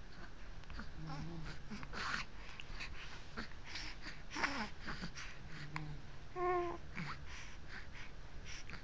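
Baby babbling and cooing in short breathy sounds and squeaks, with one longer pitched coo about six and a half seconds in.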